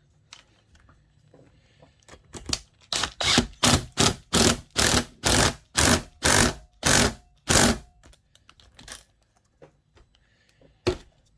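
Hand-tool work on a chainsaw's clutch: a run of about a dozen evenly spaced metal strokes, about two a second, then a pause and a couple of single sharp clicks near the end.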